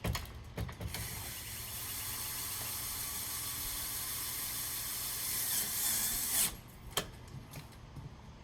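A few clicks, then a cordless drill running steadily for about five and a half seconds as it drives a screw, getting a little louder just before it stops suddenly; a single sharp knock follows.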